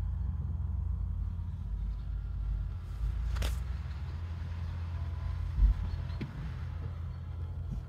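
BMW 530d's three-litre straight-six turbodiesel idling, a steady low hum heard inside the cabin. A sharp click comes about three and a half seconds in, and a low thump a couple of seconds later.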